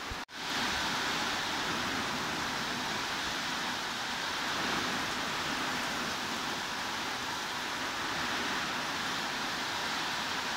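Heavy rain falling in a steady, even hiss. About a quarter second in the sound cuts out for an instant, then resumes slightly louder, as at a splice in the recording.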